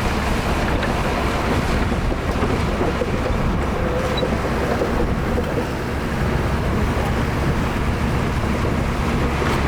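Heavy construction machine's diesel engine running steadily, a continuous low drone with no break.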